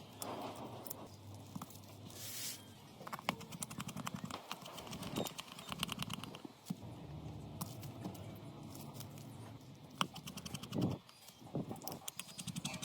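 Small hand tools clicking and tapping on phone parts. A fast run of light clicks comes in the middle, with a few sharper single clicks before and after it.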